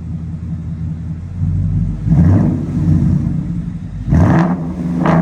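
Ford Mustang GT's 5.0 Coyote V8 through a muffler-delete axle-back exhaust, idling, then revved in three short blips with rising pitch, about 2 s, 4 s and 5 s in. The revs appear to be cut short by the stationary rev limiter at about 3,000 rpm.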